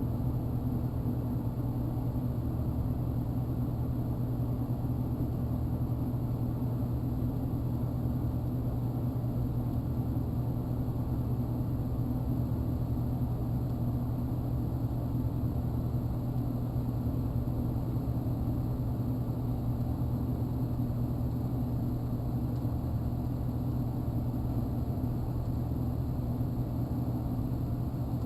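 TIG welding arc held steadily while a bead of 308L stainless filler rod is laid on mild steel: a constant low hum with no breaks.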